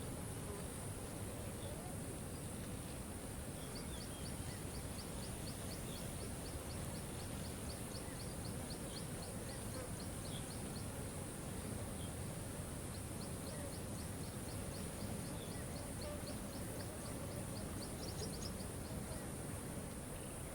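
Steady rush of a waterfall, with a bird's fast trill of short high ticking notes, several a second, in two long runs.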